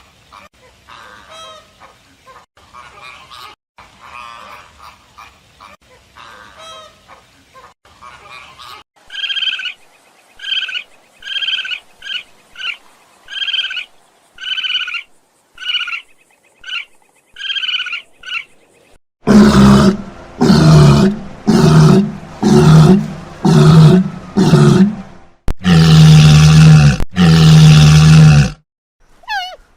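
Animal calls from several animals in turn: faint scattered calls, then a series of high, clearly pitched calls about once a second, then from about two-thirds of the way in a run of very loud, deep calls in quick pulses.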